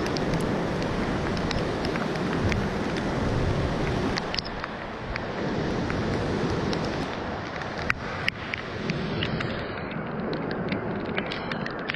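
Storm wind and rain making a steady rushing noise, with wind buffeting the microphone and scattered sharp ticks.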